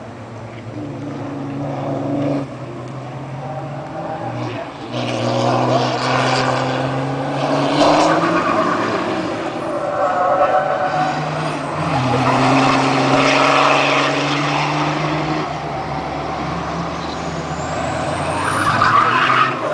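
Diesel racing trucks' engines running at speed as several trucks pass in turn. The engine notes swell and fade with each pass, loudest about a third of the way in and again near the middle.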